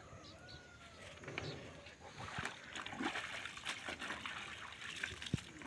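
Water splashing and trickling as wet laundry is handled by hand, in irregular bursts, with a sharp knock near the end.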